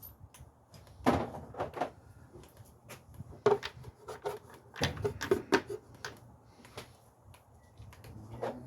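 Metal hand tools and sockets being handled, a run of irregular knocks and clinks with short clusters of clatter.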